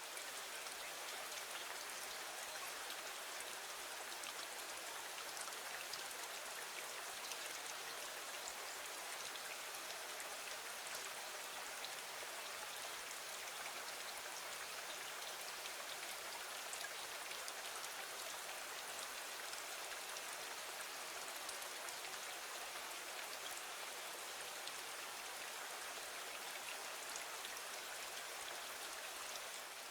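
Steady rain falling: an even hiss dotted with fine ticks, unchanging throughout.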